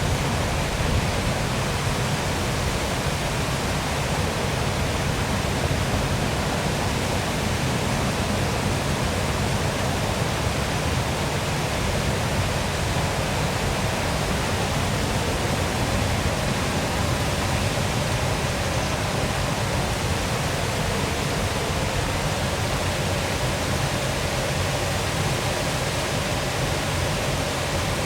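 Waterfall splashing: a steady, even rush of falling water.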